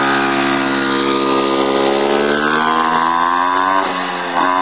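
Mini motorcycle's small engine running under throttle, its pitch climbing steadily as it speeds up, then dropping off about four seconds in before a short rev near the end.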